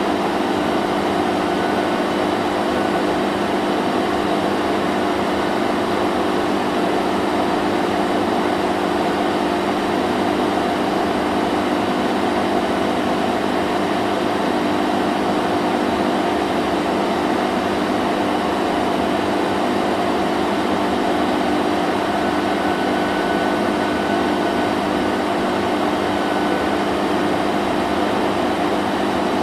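Vacuum cleaner running steadily: a constant motor hum with a broad rushing hiss of airflow, unchanging throughout.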